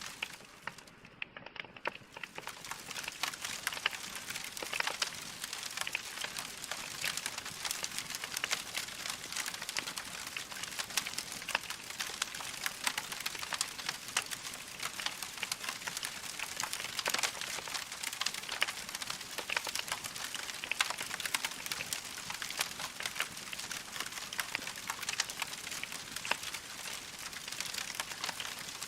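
Wood fire crackling, a dense run of small irregular pops and snaps over a soft hiss. It is quieter for about the first two seconds, then steady.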